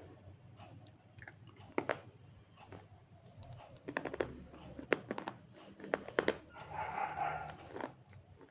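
A person biting and chewing hard, crunchy clay (slate pencil and multani mitti). There are sharp crunches about two seconds in, then a cluster of crunches between four and six and a half seconds, and a softer chewing rustle near the end.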